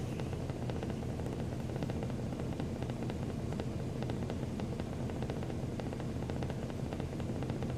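Semi truck's diesel engine idling: a steady low hum with many faint small clicks over it.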